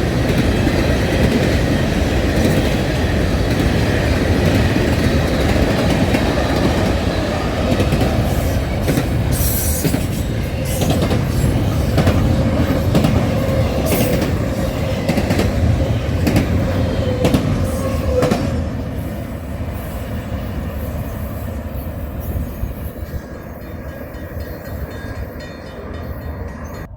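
Train passing on the tracks, a loud steady rumble with wheels clicking over rail joints, then fading away from about 18 seconds in as it moves off.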